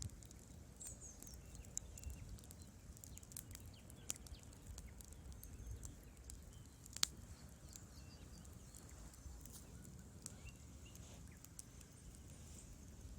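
Wood fire crackling in a fireplace: irregular sharp pops and snaps over a low steady rumble, with one louder pop about seven seconds in.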